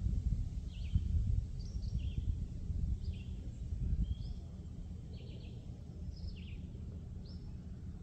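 Birds singing: short chirping calls repeated about once a second, over a low fluctuating outdoor rumble that eases after the first few seconds.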